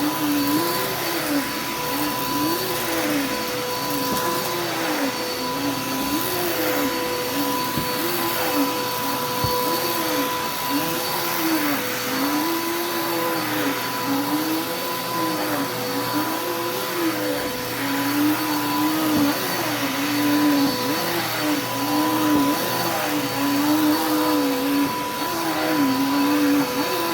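Vacuum cleaner running steadily on carpet. Its motor hum rises and dips in pitch about once a second as it is pushed back and forth.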